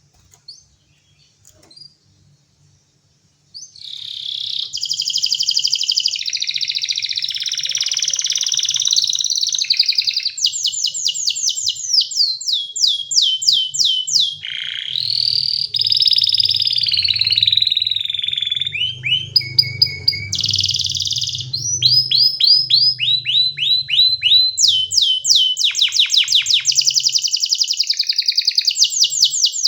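Domestic canary singing: a couple of soft chirps, then from about three and a half seconds in a long unbroken song of rolling trills, runs of rapid repeated falling notes and a few held whistles.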